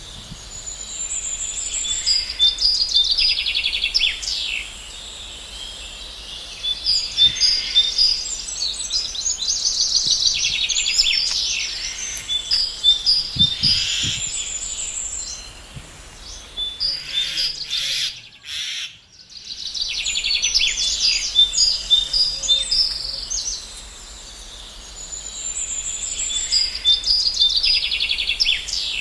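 Songbirds chirping and trilling, several high quick calls overlapping in repeated bouts. All sound drops out briefly a little past the middle.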